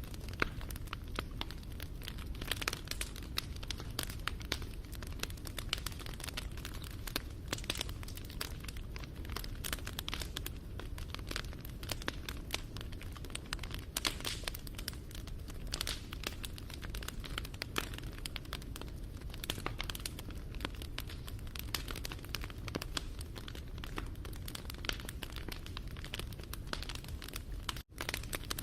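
Wood fire crackling and popping steadily over a low rumble of burning. The sound cuts out for an instant near the end.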